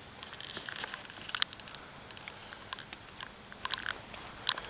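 Dry corn leaves and stalks rustling and crackling with scattered light, irregular clicks, the sharpest about a second and a half in.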